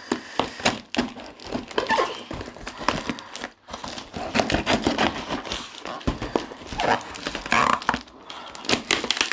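Cardboard shipping box and packing tape being torn and pried open by hand, in a string of irregular rips, scrapes and knocks, with a brief pause about three and a half seconds in.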